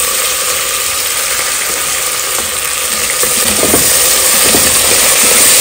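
Chopped tomatoes sizzling in hot oil and ghee in a pressure cooker as a wooden spatula stirs them. The sizzle is steady and grows a little louder about two-thirds of the way through.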